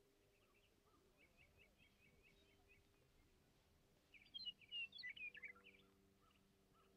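Faint birdsong: small birds chirping in quick runs, with a louder flurry of calls about four seconds in, over a faint low steady hum.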